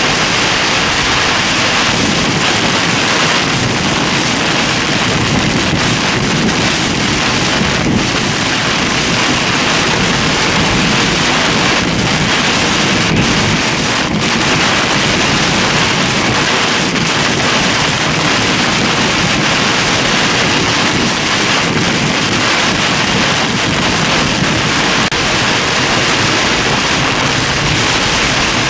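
Torrential rain beating hard and steadily on a vehicle, a dense, even hiss with no break.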